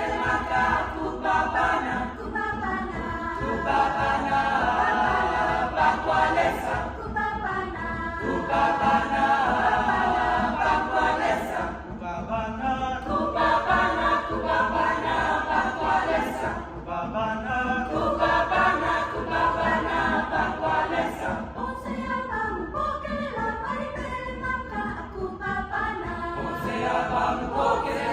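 High school choir singing, several voice parts in harmony, with short breaks between phrases.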